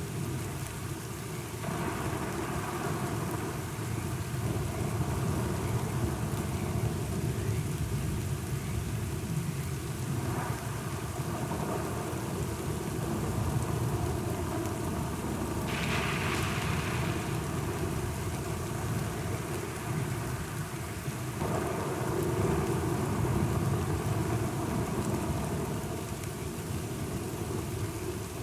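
Steady rain with low, rolling thunder underneath. A louder, brighter swell of thunder comes a little past the middle, with smaller swells before and after.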